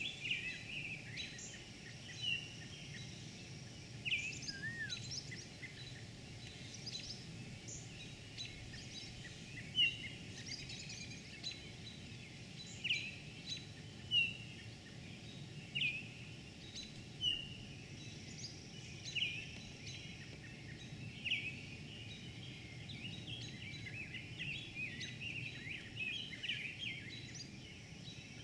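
Small birds chirping, a short call every second or two, over a steady low background rumble.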